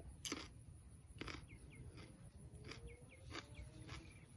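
Faint crunching of a raw jalapeño pepper being chewed, a crisp click about every second, with a few faint short bird chirps behind it.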